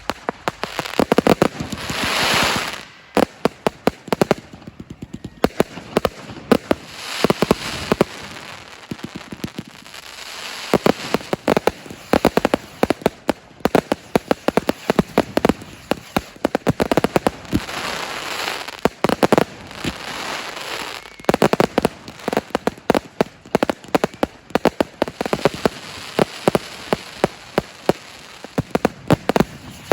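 Fireworks display: a dense, irregular run of sharp bangs and cracks from bursting aerial shells, with several swells of hissing crackle in between.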